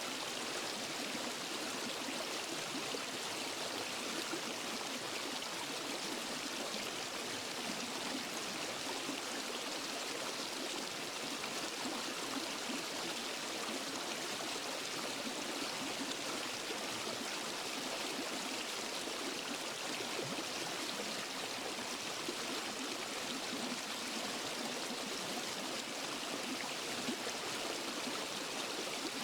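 Waterfall and forest stream: water rushing steadily and evenly, with little deep rumble.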